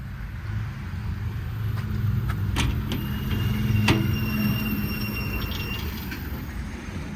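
Diesel truck engine, the F-750's 5.9 Cummins, idling with a steady low hum. A couple of sharp clicks sound about two and a half and four seconds in.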